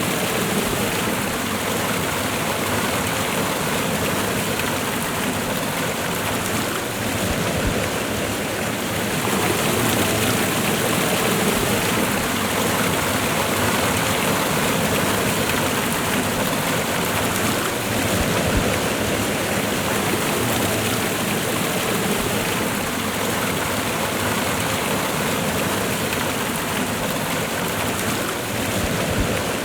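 Waterfall and river water rushing steadily, a dense even splashing roar.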